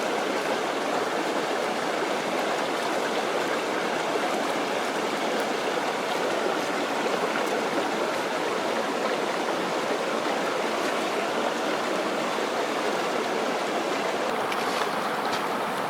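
Mountain stream rushing steadily over rocks, a loud, continuous wash of water.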